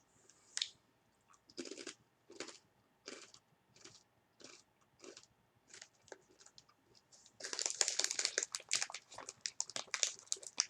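Corn chips with flax seeds being chewed with the mouth close to the microphone: regular crunches about every two-thirds of a second, turning into a louder, denser crackling about seven seconds in.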